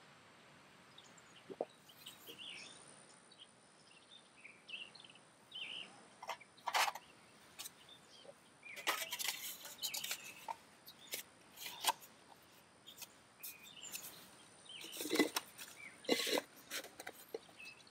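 Scattered clicks and scrapes of eating utensils against a pot, busiest around the middle and again near the end, over faint bird chirps.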